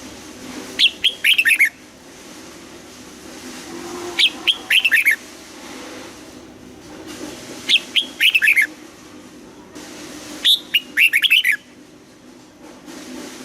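Red-whiskered bulbul singing: four short, loud song phrases, one every three seconds or so, each a quick run of falling notes.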